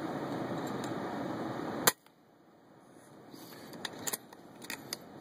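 A single sharp shot from an FX Impact .177 PCP air rifle, a quiet gun, about two seconds in, over steady background noise. The background then drops away and a few faint clicks follow.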